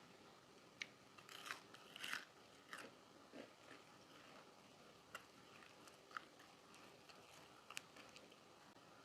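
Close-miked eating: a few crunchy bites about a second and a half in, then quieter chewing with scattered small crisp clicks.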